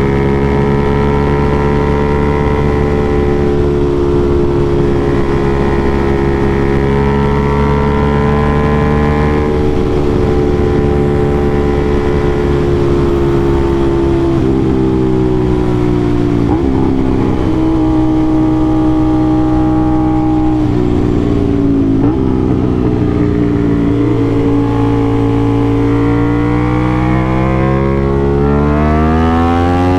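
Aprilia RS660's parallel-twin engine through an SC-Project CRT exhaust while riding: it holds a steady pitch at first, drops in pitch about halfway through and again a few seconds later as the bike slows for corners, then climbs steadily over the last few seconds as it accelerates.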